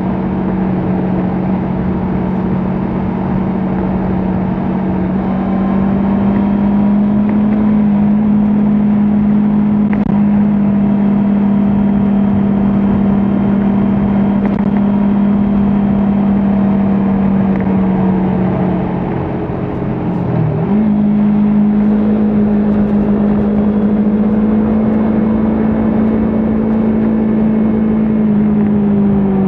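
Kawasaki Ninja 400's parallel-twin engine running at a steady highway cruise, heard from the bike over a rush of road and wind noise. The engine note rises slightly about six seconds in, drops sharply and briefly about twenty seconds in before picking back up, and starts to fall near the end.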